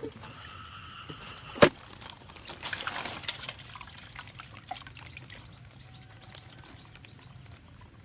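Water pouring and splashing in small spills, with a single sharp knock about a second and a half in.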